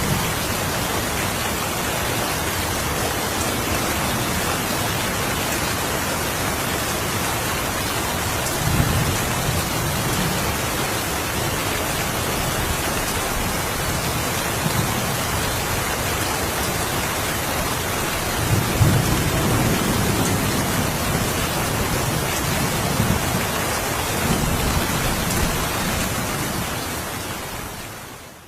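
Steady rain with low rolls of thunder, one about nine seconds in and a longer one around nineteen seconds. The rain fades out at the end.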